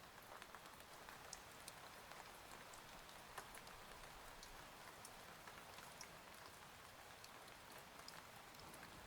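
Faint, steady rain: an even hiss with many small, scattered drop ticks.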